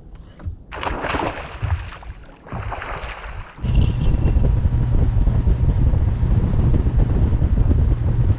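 Wind buffeting the microphone: two short hissing gusts, then a loud steady rumble that starts suddenly about three and a half seconds in.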